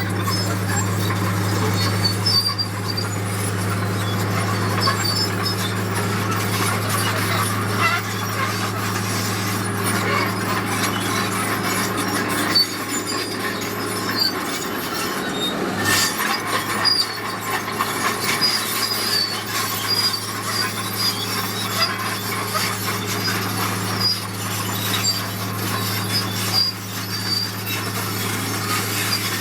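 Heavy earthmoving machinery's diesel engine running with a steady low hum, with scattered high squeaks and a brief dip and knock about halfway through.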